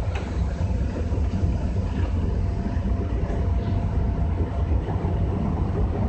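A JR West 201 series electric train running, heard from inside its cab: a steady low rumble of wheels on rail with a few light clicks from rail joints.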